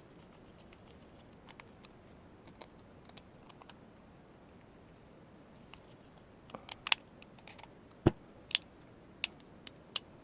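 Small sharp clicks and taps of gas-blowback airsoft rifle parts being handled and fitted together. They are faint and sparse at first, then louder and more frequent in the second half, with the loudest knock about eight seconds in.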